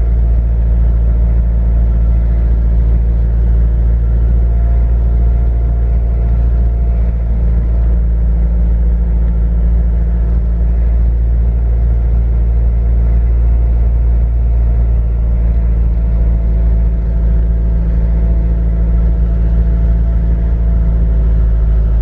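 A moving car heard from inside the cabin: a steady low road-and-engine rumble with a constant engine hum.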